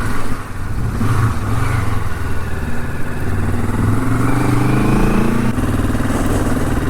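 Honda CL450's parallel-twin engine running under way, its pitch climbing as it accelerates, then dropping suddenly at a gear change about five and a half seconds in.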